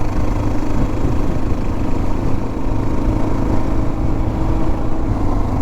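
Motorcycle engine running steadily while riding, over a heavy, even low rumble.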